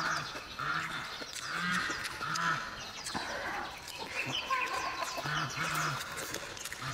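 Close-up chewing of stir-fried rice noodles and sausage: wet mouth clicks and smacks, with a low pitched sound repeating about once or twice a second in time with the chewing.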